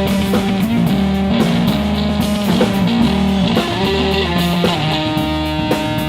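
Live blues trio playing an instrumental passage: electric guitar over bass guitar and a drum kit.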